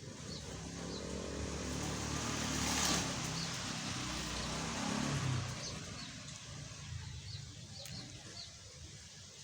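A motor vehicle, likely a motorcycle, passes by, its engine swelling to its loudest about three seconds in and then fading away. Short high bird chirps come every second or so.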